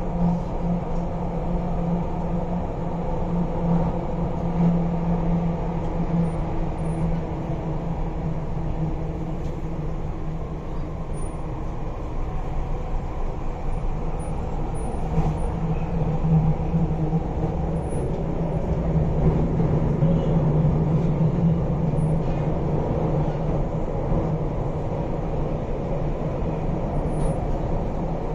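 Running noise inside a carriage of an MTR East Rail line R-Train electric multiple unit under way: a steady rumble with a low hum that swells and fades a little.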